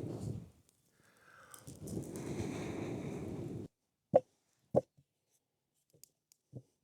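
Steady rushing noise that cuts off abruptly about halfway through, followed by two sharp knocks about half a second apart and a few fainter taps.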